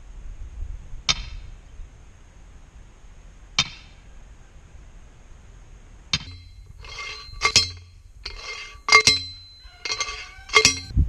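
Metal striking metal: single sharp clinks with a short ring, about two and a half seconds apart, then a quicker run of ringing clinks and clangs in the second half.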